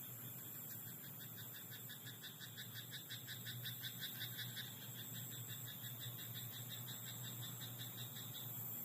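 Frog calling: a long run of rapid pulsed croaks, about ten a second, starting about half a second in and loudest near the middle, over a steady high hiss.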